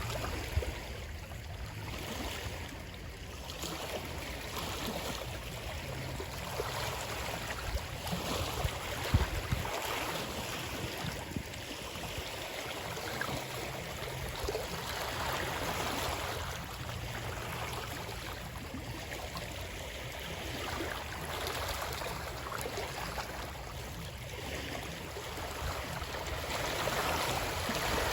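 Water rushing continuously, swelling and easing every few seconds, with a low rumble underneath.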